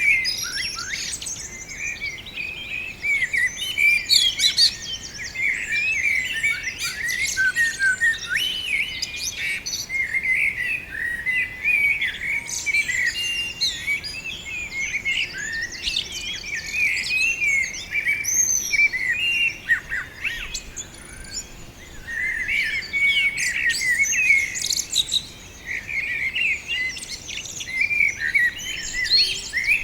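Many small birds chirping and twittering at once in a dense, overlapping chorus of short high calls, which thins out briefly about two-thirds of the way through.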